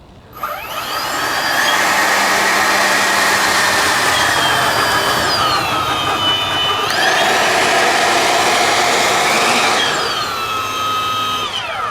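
Two 90 mm electric ducted fans on a large RC model airliner spooling up to a loud, high whine during taxiing. The whine eases back about five seconds in, spools up again a second or so later, and winds down near the end.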